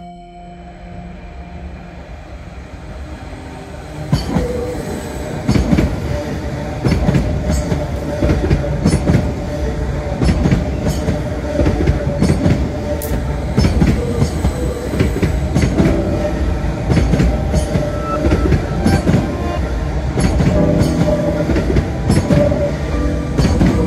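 Electric multiple unit moving slowly past a platform, its wheels knocking over rail joints with a steady rumble and a faint whine. Quieter for the first few seconds, then the knocks start about four seconds in and repeat roughly every half second.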